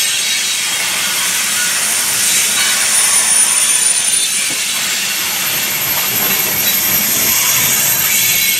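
Train cars rolling past close by: a steady, loud rush of steel wheels on the rails.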